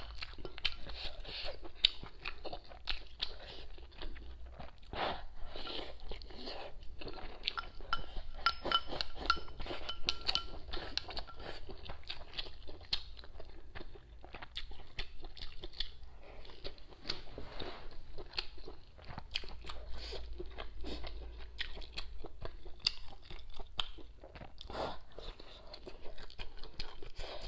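A person chewing and biting mouthfuls of spicy hotpot food, close to a lapel microphone, giving a steady run of short, irregular mouth clicks and smacks.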